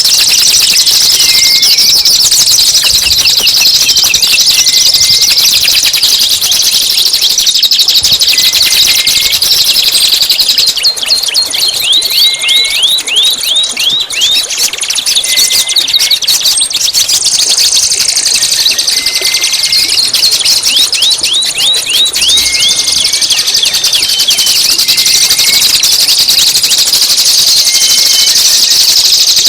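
Recorded songbird masteran song: a loud, dense, high-pitched trill throughout, with a short slurred call repeated about every two seconds and runs of quick sweeping chirps in the middle.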